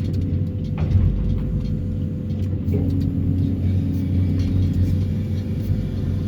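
Excavator carrying a vibro hammer for sheet-pile extraction, its engine running as a steady low drone with a faint constant tone above it. A couple of short knocks come about a second in.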